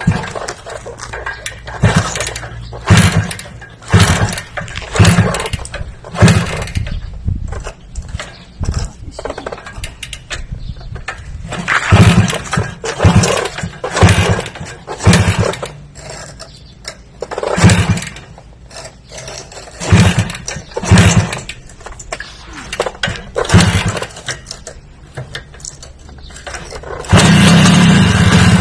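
A small motor revved in repeated short bursts, roughly one a second with uneven gaps. It ends in a longer, steady rev lasting about a second and a half.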